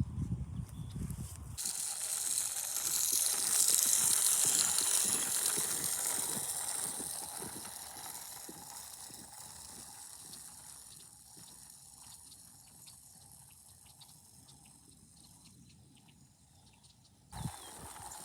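Broadcast seed spreader in use: rapid ticking of its spinning mechanism with a hiss of seed being thrown, loudest a few seconds in and slowly fading away.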